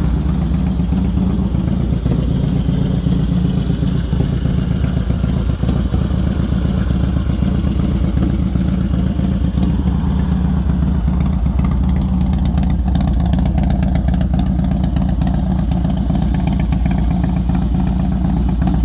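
1999 Harley-Davidson Dyna Super Glide's Twin Cam 88 V-twin idling steadily through a 2-into-1 Thunder Header exhaust, its CV carburettor freshly tuned to the header and, in the shop's words, running great.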